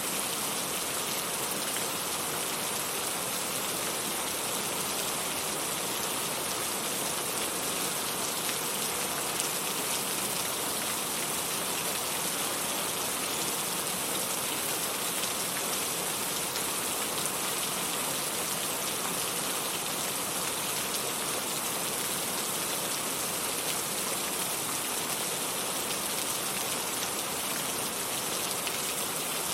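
Steady, constant rain falling on a surface, a dense even hiss with fine scattered drop patter.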